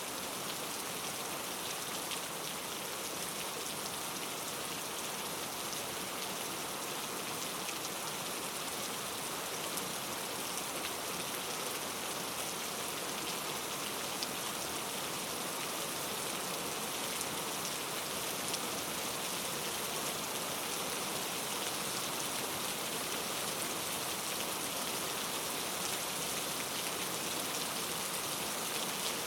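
Steady rain falling on a surface, a constant hiss with many fine drop ticks.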